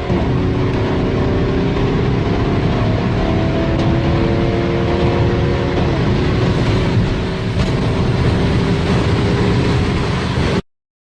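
BMW 3 Series turbodiesel engine under hard acceleration, its note climbing and dropping back at gear changes over heavy road and wind noise. It cuts off abruptly near the end.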